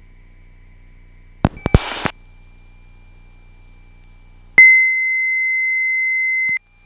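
A few sharp clicks and a brief rustle, then a loud steady electronic beep on one pitch, held for about two seconds and cutting off abruptly.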